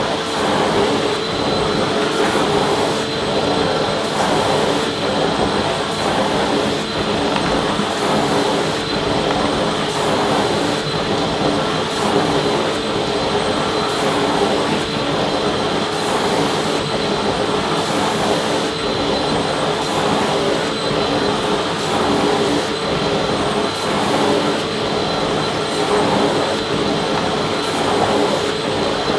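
Vacuum cleaner running steadily: a continuous rush of air with a steady motor whine on top.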